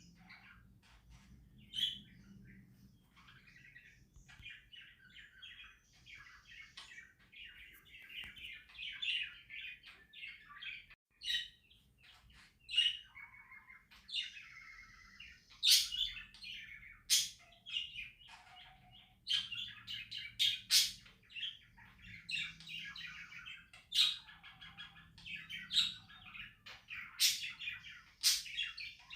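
Pet budgerigars chattering and warbling, with sharp, loud chirps cutting in more often over the second half.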